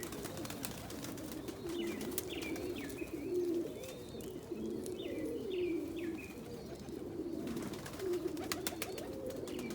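Domestic pigeons cooing, several calls overlapping continuously, with short higher chirps from other birds in the first half and scattered light clicks near the end.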